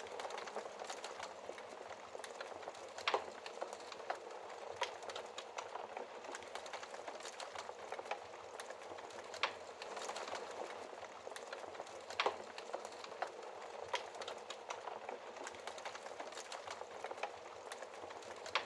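Wood fire crackling in a fireplace: a steady soft hiss with many small pops. A few louder pops stand out, about three seconds in, near the middle and about twelve seconds in.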